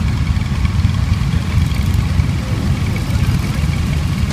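Motorcycle engines idling with a steady low rumble.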